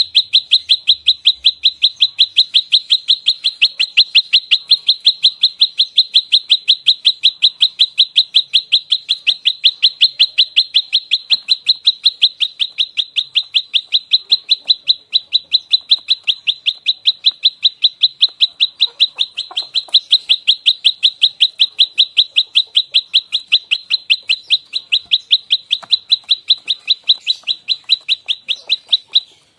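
Olive-backed tailorbird (prenjak lumut) giving its aggressive fighting call: a loud, rapid, evenly spaced string of short high notes, about four a second, with no pause until it breaks off briefly at the very end.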